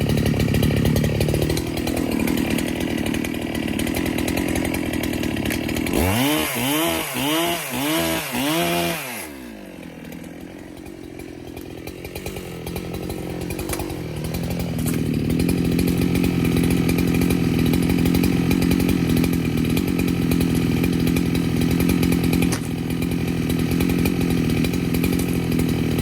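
Neotec NH895 chainsaw, a big two-stroke Husqvarna 395 clone, cutting white oak. It revs four times in quick succession about six seconds in and drops to a quieter idle. Around fifteen seconds in it comes back up and runs steadily at speed.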